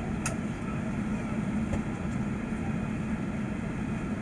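Steady engine and airflow noise inside the cabin of an Airbus A380, with one short click about a quarter second in.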